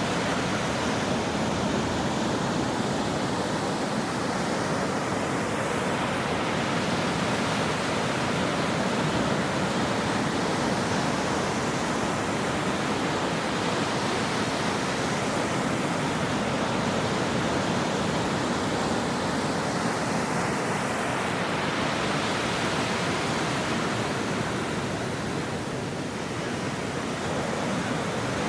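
Ocean surf washing onto a shore: a steady rush of breaking waves whose hiss swells and eases slowly a couple of times.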